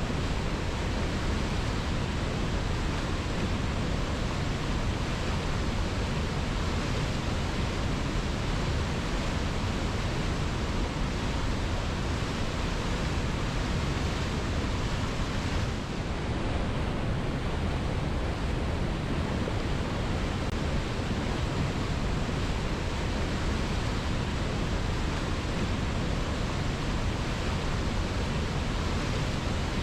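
Waterfall cascading over rocks: a steady, unbroken rush of falling water, with a brief slight dip about halfway through.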